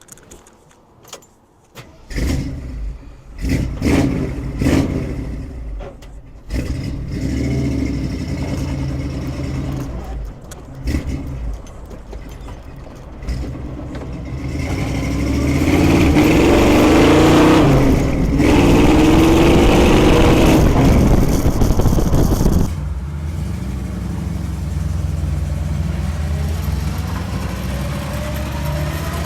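A Jeep CJ7's AMC 304 V8 starting about two seconds in after a few clicks, revved a few times, then pulling away under acceleration, loudest in the middle, and running more steadily toward the end.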